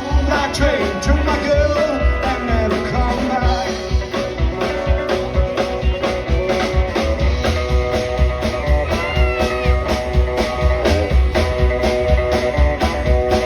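Live rock-and-roll band performance: electric guitar and drums playing a steady beat, with a voice singing in the first few seconds.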